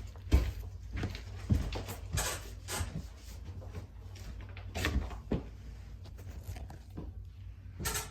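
Irregular knocks, clunks and scraping of old flooring and debris being handled, with a few sharper knocks scattered through.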